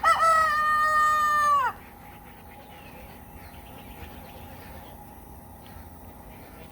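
Rooster crowing once: a few short rising notes, then a long held note that drops off sharply about a second and a half in.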